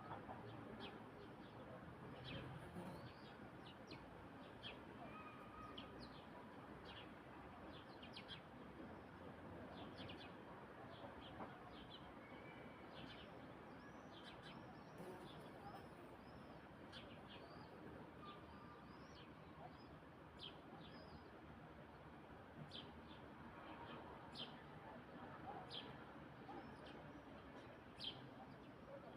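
Faint bird calls: scattered short chirps and quick up-and-down notes from small birds, over a steady background hiss of evening outdoor ambience.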